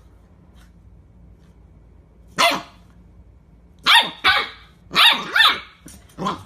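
A dog barking six times: a single bark about two and a half seconds in, then two quick pairs and one more near the end.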